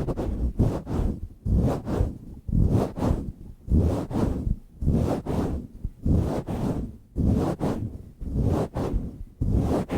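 A microphone cover being rubbed, swirled and squeezed right against the microphone, making deep, rough rushing swells in a steady rhythm of about one and a half to two per second.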